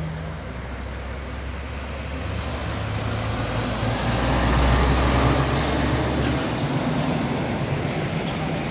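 Diesel engine of a heavy trailer truck labouring on the climb, a low drone that grows louder to a peak about five seconds in, then eases off.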